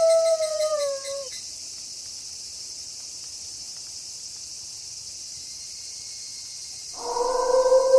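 A long wolf howl slides down in pitch and ends about a second in, leaving a steady chorus of night insects, crickets by the sound of the high, even chirring. Another long, steady wolf howl starts near the end.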